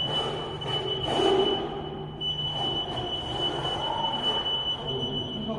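Bravi Sprint order picker's warning buzzer sounding as one steady high-pitched tone while the machine is driven, breaking off briefly about two seconds in, over a low steady hum.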